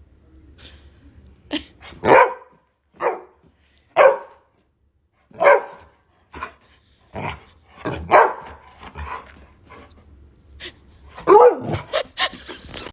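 A dog barking repeatedly, single barks about once a second.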